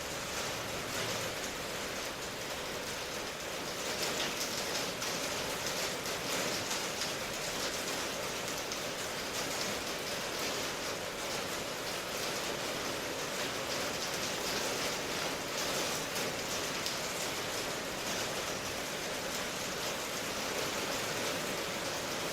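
Steady rain falling, a dense even hiss of drops with no single drops standing out.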